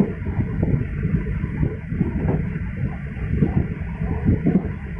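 Passenger train running along the track, heard from the rear of the last car: a steady low rumble of wheels on rail with uneven knocks and thumps.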